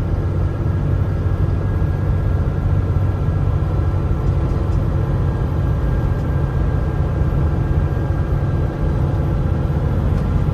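Steady low engine drone and road noise inside the cab of a Kenworth T680 semi truck coming down a steep 8% grade.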